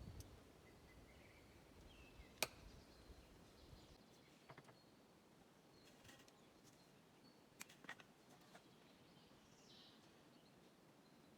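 Near silence: faint outdoor ambience with a few sharp clicks, the loudest about two and a half seconds in, and faint high chirps.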